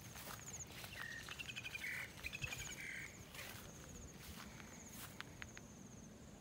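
Birds chirping, with a cluster of calls between about one and three seconds in, over a thin high pulsing insect trill and a few soft footsteps.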